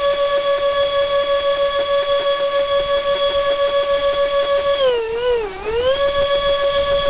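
Electric ducted fan motors of an RC A-10 jet whining at a steady throttle with a fast, even pulsing, dipping and wavering down in pitch about five seconds in before coming back up to the same pitch.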